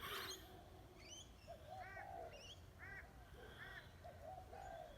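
Faint outdoor birdsong: a bird repeats a short arched call about once a second, mixed with quick high chirps from other birds. A short burst of noise comes right at the start.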